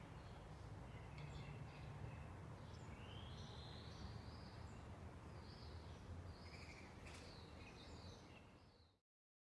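Faint birdsong, scattered short chirps and calls with one rising call about three seconds in, over a low steady background rumble. It cuts off suddenly near the end.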